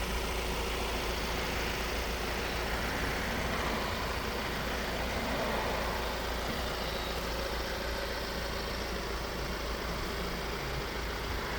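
Ford Transit dropside truck's diesel engine idling steadily.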